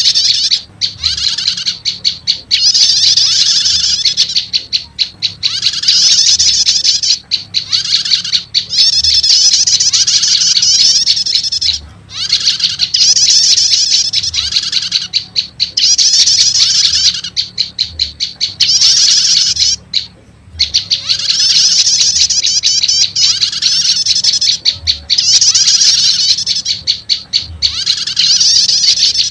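Prenjak lumut lure-call recording: bouts of rapid, high-pitched chirping, each a second or two long, repeating with short gaps.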